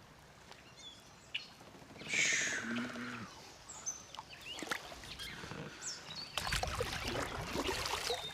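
Small birds chirping in short calls along a river, with a loud rushing noise about two seconds in that falls in pitch, and a longer stretch of rushing, rustling noise near the end.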